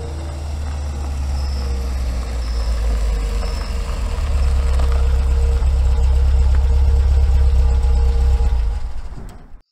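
Car engine running with a low, steady rumble as the car pulls up and idles. It grows louder over the first half and cuts off abruptly near the end.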